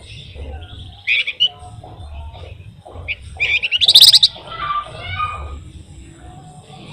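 Flamboyan songbird singing: scattered chirps, a short bright phrase about a second in, then a loud, rapid rolling trill about halfway through.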